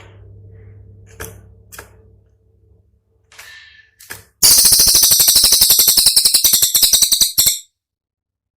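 A cililin giving a few short sharp call notes and a brief chirp, then a loud, very fast rattling burst of about ten notes a second that lasts some three seconds and cuts off suddenly: the sharp, rapid 'tembakan' used as master song for training other songbirds.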